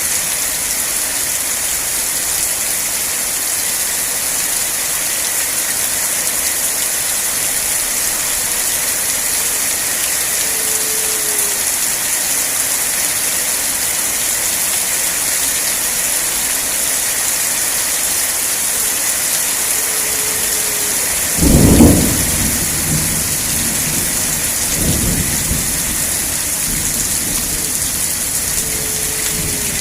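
Steady rain falling, with a thunderclap about three-quarters of the way through and a weaker rumble a few seconds later.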